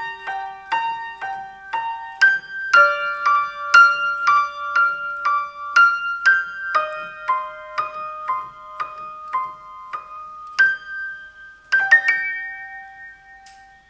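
Solo piano music playing slow, evenly spaced notes and chords, about two a second, slowing toward the end and closing on a held chord that fades out.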